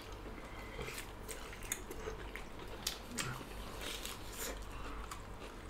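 Two people eating with their hands and chewing quietly, with scattered small mouth clicks and soft smacks.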